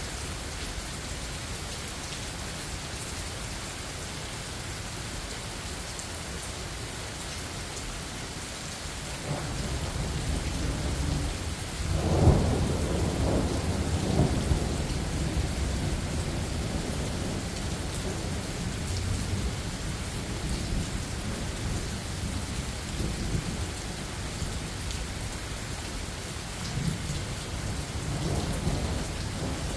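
Steady rain falling, with a roll of thunder rumbling in about nine seconds, peaking with a loud crack about twelve seconds in and rolling on in lower swells.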